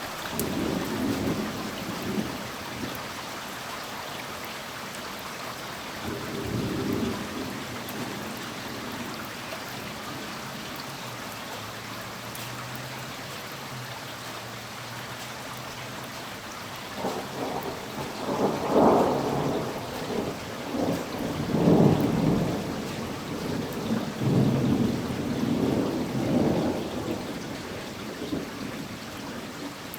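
Steady rain falling through a thunderstorm, with brief low rumbles of thunder near the start and again around seven seconds in, then a long rolling peal of thunder over the second half that swells loudest twice before dying away near the end.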